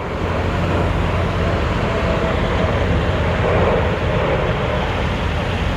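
Loud, steady roar of the Thunderbirds' F-16 fighter jets flying overhead, swelling in the first second, with a faint whine that drops slightly in pitch midway.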